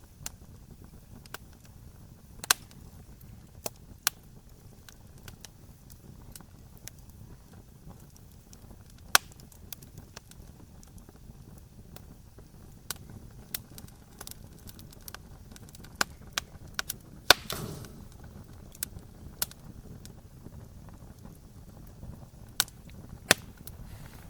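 Wood fire burning: irregular sharp crackles and pops over a low steady rumble of the flames, with a brief hiss of escaping gas about two-thirds of the way in.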